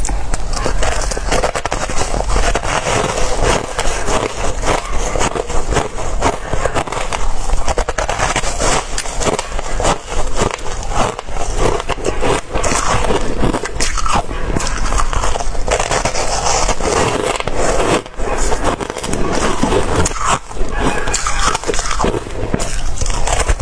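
Close-miked ice being bitten and chewed: dense, continuous crunching and crackling with many rapid irregular crunches and brief dips between bites.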